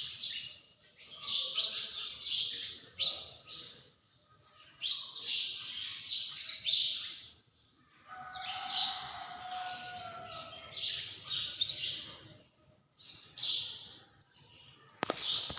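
Repeated high-pitched animal chirping calls in clusters, with a lower held call about halfway through and a sharp click near the end.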